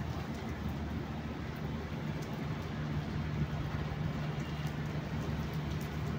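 Steady rain falling onto a flooded concrete rooftop, with a low steady hum underneath that grows a little stronger about halfway through.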